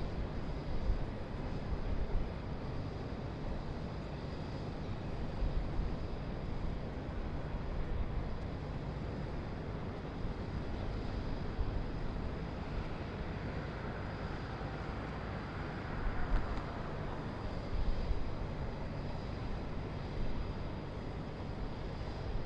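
City ambience: a steady low rumble of distant traffic with occasional low thumps. A faint passing sound swells and fades a little past the middle.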